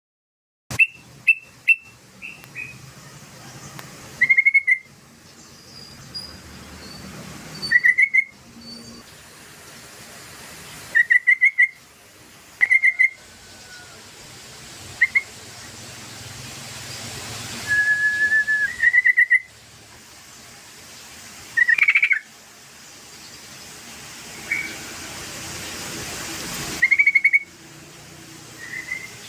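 Yellow-vented bulbul (crucokan) song: loud, short phrases of quick bubbling whistled notes, repeated every few seconds. It is used as a lure track to set caged birds singing.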